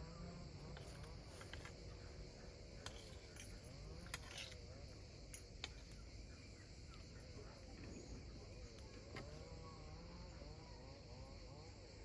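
Faint outdoor ambience of insects chirring steadily at a high pitch, with a few scattered small clicks.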